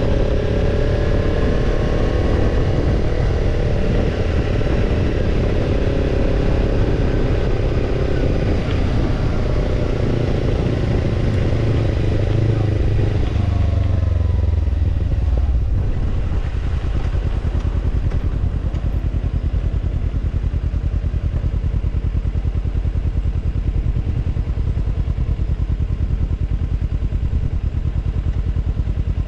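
Kawasaki Ninja 250's parallel-twin engine through a BEET Nassert Evolution Type II titanium slip-on muffler. For about the first half the engine note rises and falls under way, then the revs drop and it settles into a steady idle.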